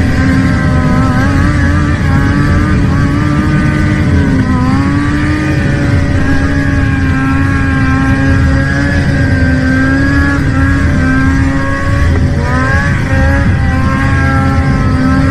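A vehicle engine running hard at high, fairly steady revs, its pitch dipping briefly about four seconds in and wavering again near twelve seconds.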